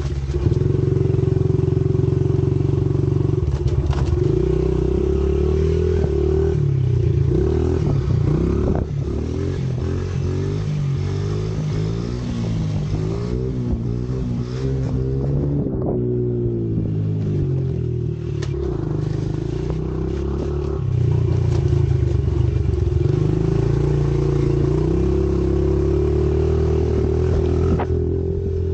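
Pit bike engine running continuously, mostly at a steady speed. Around the middle its pitch rises and falls again and again as the throttle is worked.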